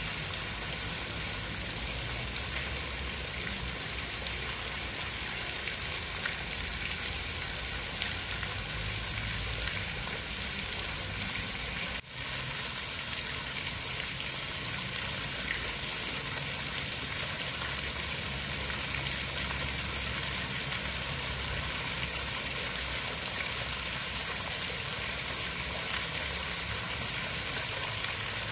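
Steady, even hiss of water, like rain or running water, with a momentary drop about twelve seconds in.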